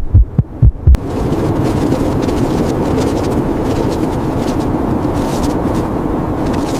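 A heartbeat sound effect, low thumps in pairs, cuts off about a second in. A steady rushing roar of blizzard wind takes over.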